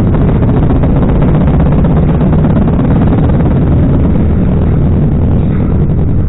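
A car running loud and steady, its sound mostly low-pitched.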